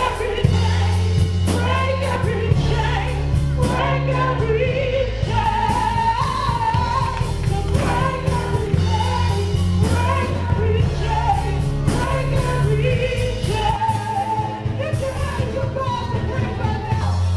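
Live gospel singing with band accompaniment: a vocal line wavering over sustained bass and organ-like chords.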